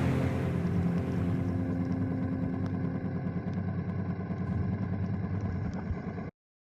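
BMW motorcycle engine running steadily, with a few faint ticks. The sound cuts off abruptly near the end.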